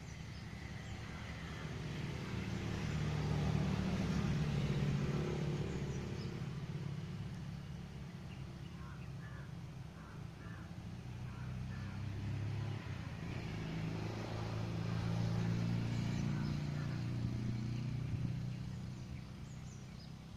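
Two motor vehicles passing one after the other, each engine hum swelling up and fading away, the first about four seconds in and the second near the end. A few faint bird chirps come between them.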